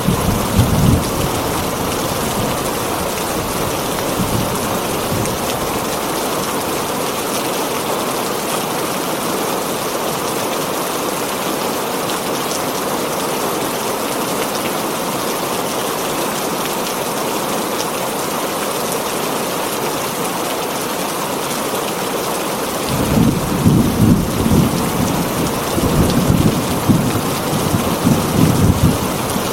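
Heavy rain drumming on a tin roof, a steady dense hiss. Thunder rumbles low in the first second and again from about 23 seconds on, in rolling surges.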